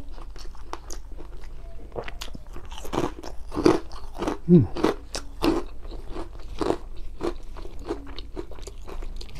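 Close-up, open-mouthed chewing of a mouthful of sauce-soaked rice and grilled fish, with irregular wet smacking clicks, and a short falling hum about halfway through.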